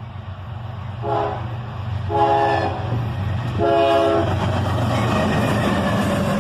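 Freight locomotive air horn sounding three short blasts as a salute from the engineer of a GE ES40DC-led freight train. The train's low engine rumble runs under the horn and grows louder after the third blast as the train closes in.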